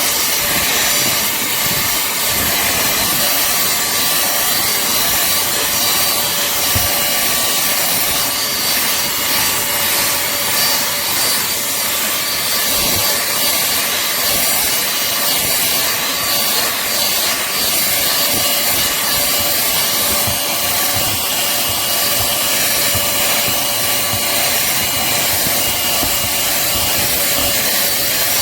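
A pemacom cordless handheld vacuum running steadily, with a high motor whine held at a constant pitch. Its nozzle scuffs irregularly as it works over the inside of a car, picking up dirt.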